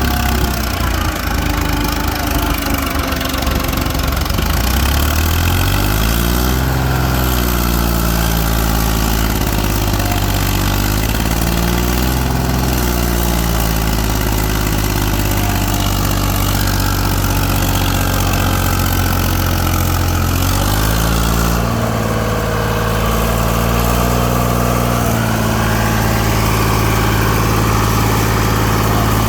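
Tractor diesel engine labouring under a heavy load. It revs up and falls back twice, then climbs to a higher steady pitch about two-thirds of the way through, as the overloaded tractor struggles up a slope and stalls in its climb.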